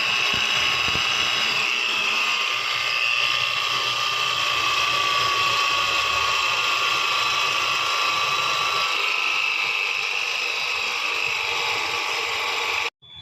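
Car engine running with a steady high-pitched whine, an abnormal engine noise. It cuts off suddenly near the end.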